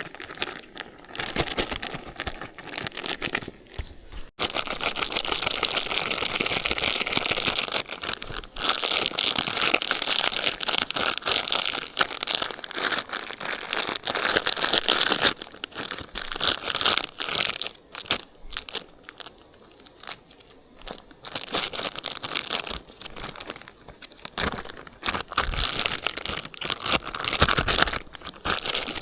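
Crinkling and rustling handling noise, as of a bag or packaging being crumpled and torn, coming in bursts with short pauses.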